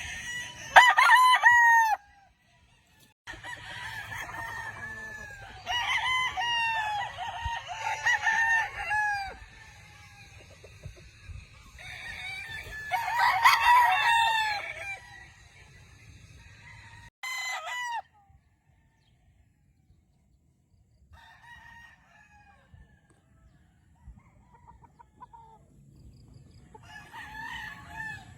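Roosters crowing one after another, several crows in succession with some overlapping, the loudest near the start and around the middle and fainter crows toward the end.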